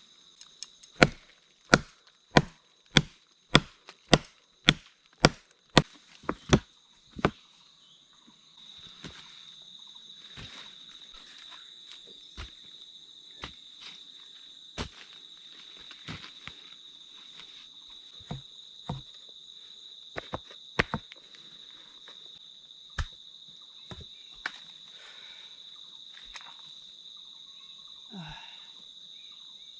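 Chopping into wood: a quick run of about a dozen even strokes, a little under two a second, then slower scattered knocks. A steady high insect drone runs underneath and grows louder once the fast chopping stops.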